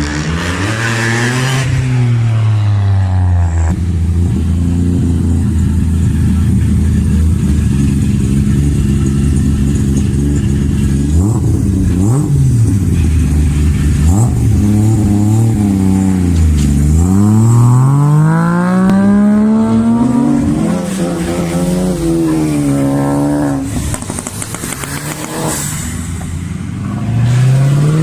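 Modified car engines with loud exhausts idling and being revved. The pitch holds steady for stretches and rises and falls several times, with one long climb and drop a little past halfway.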